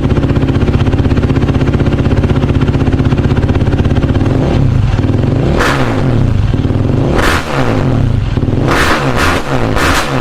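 Yamaha YFZ450R's single-cylinder four-stroke engine breathing through an FMF Powercore slip-on muffler. It idles steadily for about four seconds, then is revved in a series of throttle blips that come quicker near the end.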